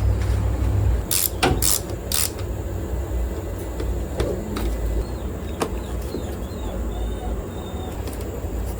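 A few sharp clicks and knocks, as of parts being handled on a car, bunched in the first couple of seconds, over a steady low rumble.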